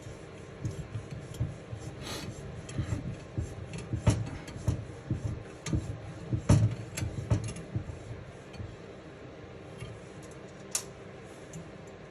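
Irregular light metal clicks, taps and rubbing from hands fitting valve springs and their parts into a Honda CB350 cylinder head with hand tools, busiest in the middle and thinning out near the end.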